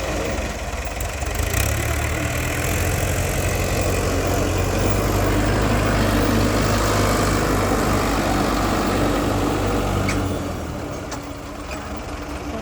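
New Holland 3630 tractor's diesel engine running steadily, getting louder a second or two in and easing down about ten seconds in.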